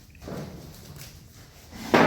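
A soft noise about a quarter second in, then a sudden knock near the end that rings on briefly as it fades.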